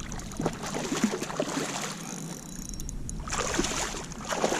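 Water splashing and lapping at the side of a kayak, with small knocks and taps on the hull; the splashing grows louder about three seconds in.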